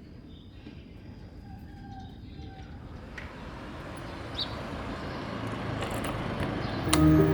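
A road vehicle's rushing noise growing steadily louder, with a few faint bird chirps; music comes in near the end.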